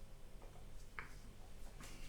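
Faint eating sounds of someone tasting trifle from a spoon: a few small clicks and mouth noises over a quiet room.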